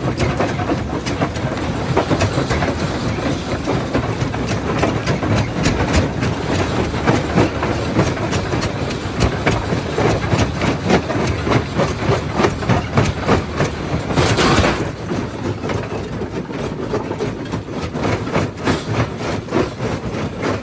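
Primary jaw crusher running, with rock knocking and cracking irregularly in the jaws over a steady low machine rumble. A short, loud gritty rush comes about 14 seconds in.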